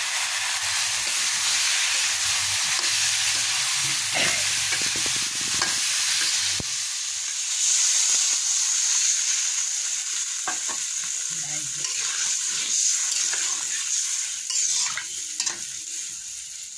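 Cauliflower florets sizzling in hot oil in a wok, with a steel spatula scraping and tapping the pan. About halfway through, water poured into the hot pan turns the sizzle into a louder, brighter hiss, which then fades as the liquid starts to simmer.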